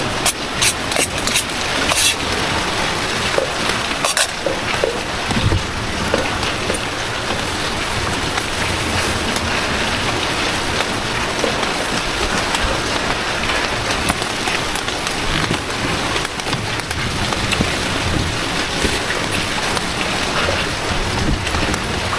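Heavy rain falling steadily, with sharp drop hits standing out now and then, most of them in the first few seconds.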